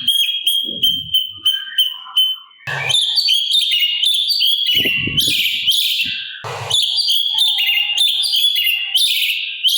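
Cucak cungkok singing: a run of short, evenly repeated notes for about two seconds, then, after a brief pause, a dense stream of rapid, varied chattering phrases.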